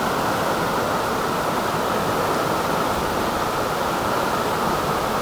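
A creek in flood, its fast high water rushing steadily without a break.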